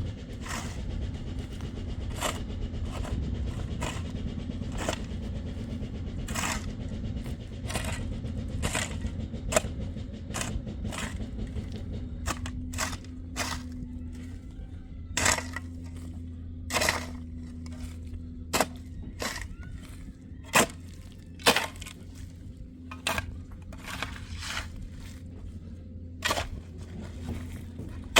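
A series of sharp cracks and knocks at irregular intervals, a few of them much louder, over a steady low hum.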